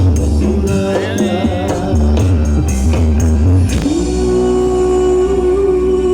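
Loud music with heavy bass and singing, played through a big Blizzard Audio sound system. A little under four seconds in, the pulsing beat gives way to one long held note over steady bass.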